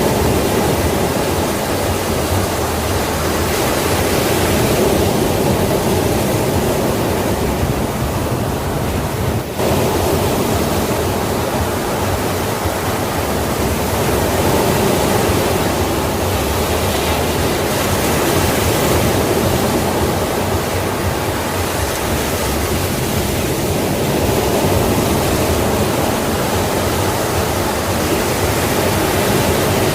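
Sea waves washing onto a shore in a constant loud rush, swelling and easing slowly, with a brief dip about nine seconds in.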